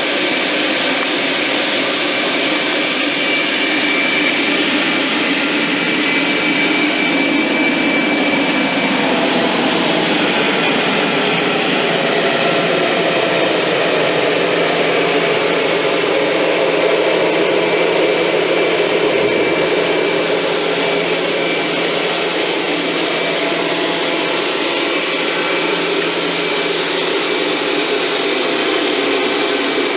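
Boeing 737-300's CFM56-3 turbofan engines running at low, steady power, as when taxiing, with a broad jet rush and faint high whining tones.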